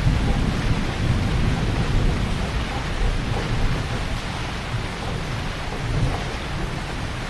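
Heavy rain falling steadily, with a deep rumble of thunder underneath that eases off gradually.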